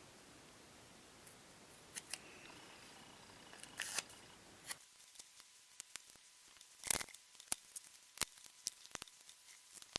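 Irregular small sharp clicks and taps from handling a small metal lighter and its parts, with a short scratchy scrape about four seconds in. The clicks come more often from about seven seconds on. A faint background hiss cuts out about five seconds in.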